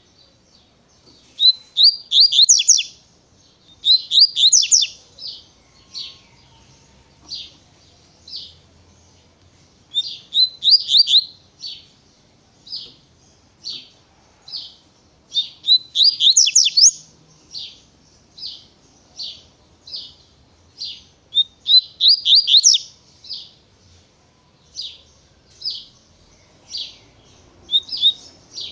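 Double-collared seedeater (coleiro) singing its tui-tui style song: fast clusters of high, sweeping notes about every six seconds, with single short notes about once a second in between.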